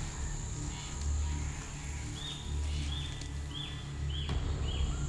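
Rainforest ambience: a steady, high insect drone, with a run of short, high chirps repeating about every half second from about two seconds in. A low music bed sits underneath.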